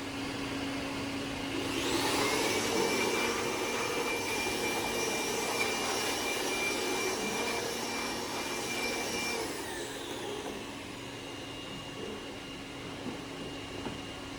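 A machine's electric motor spinning up with a rising whine, running at a steady high whine, then winding down about ten seconds in, over a steady low hum.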